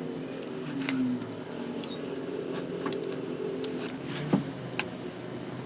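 Small metal tools and engine parts clicking and clinking during hands-on engine work, with a sharper metallic knock about four seconds in.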